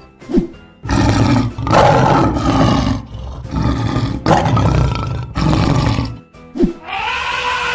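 Lion roar sound effect: a series of loud, rough roars and growls from about a second in until about six seconds. Near the end, a different rising-then-falling call begins.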